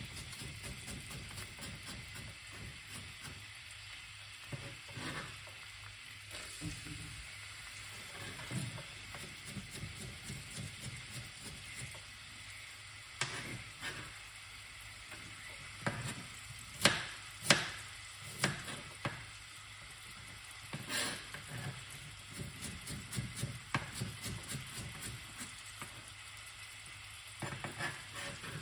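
Carrot sticks and whole spice seeds frying in oil in an aluminium pot, a steady sizzle. Scattered sharp clicks and knocks sound over it, the loudest two close together about 17 seconds in.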